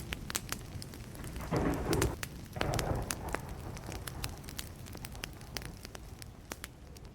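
Burning wood fire crackling with many sharp pops, over a low rumble of distant thunder that eases toward the end.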